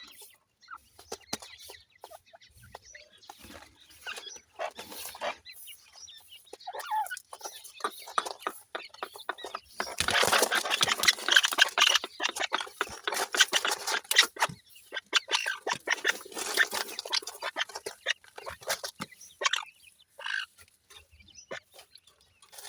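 Partridge chicks feeding: irregular pecking taps and short cheeping calls, with a dense stretch of rapid tapping and rustling from about ten seconds in that lasts several seconds.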